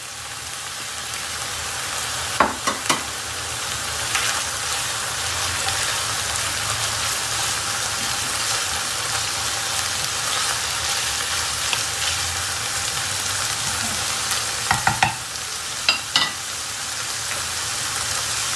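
Chopped onion and ground beef sizzling steadily as they fry in a pan, with a wooden spoon stirring and knocking against the pan a few times, about two to three seconds in and again near the end.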